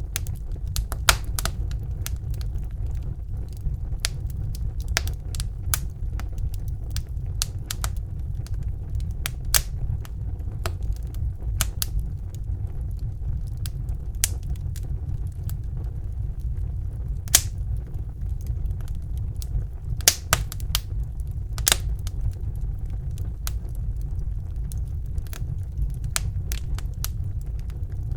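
Wood fire burning in a fireplace: a steady low rumble of the flames with irregular sharp crackles and pops, a few of them loud.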